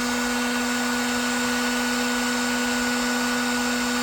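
Heat gun running steadily, its fan motor humming under a hiss of blown air. It is heating a chainsaw crankcase bearing so that a frozen crankshaft will slide into it.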